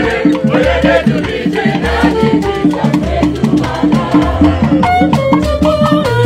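Igbo ogene band music: a steady repeating bass line with shaker and percussion playing through.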